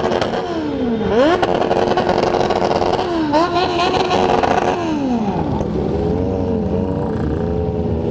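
Motorcycle engine revving hard on the road: the pitch sweeps up steeply, holds high, climbs again about three seconds in, then drops away after about five seconds to a lower, uneven running note. It is revved to be loud.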